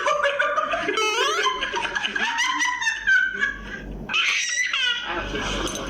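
Laughter in repeated high-pitched giggling bursts.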